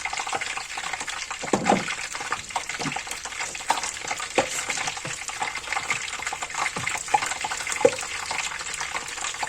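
Hot cooking oil sizzling and crackling steadily in a pan, with a few louder pops; the oil is up to frying temperature.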